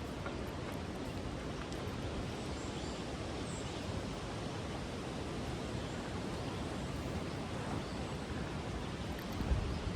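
Steady wind noise rushing across the microphone, with a low buffet about nine and a half seconds in.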